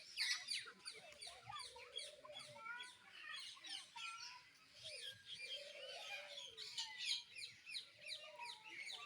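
Many small birds chirping at once: a dense stream of short, quick, downward-sliding chirps overlapping, with a few lower calls among them.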